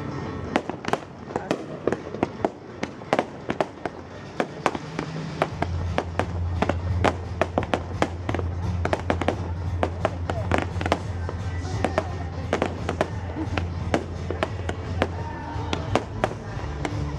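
Fireworks going off in a rapid, dense string of sharp cracks and bangs over music, with a steady low hum joining about five seconds in.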